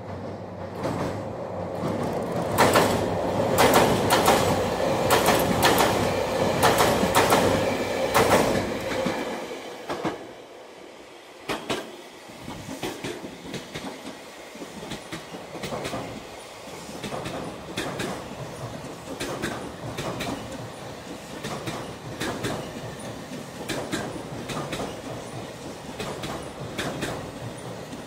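Electric train running on the rails, its wheels clacking over rail joints. The clacks are loud and come in quick clusters for the first third, then the sound drops and fainter, evenly spaced clacks carry on.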